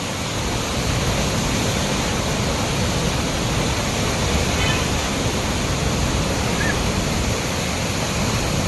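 Heavy water pouring through a dam's open spillway gates, with 23 gates open: a loud, steady rush that does not let up.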